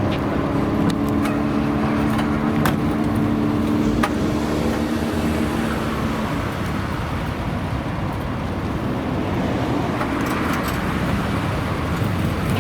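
Car engine running at a steady speed, its note fading out about six seconds in and leaving a rumble of traffic noise.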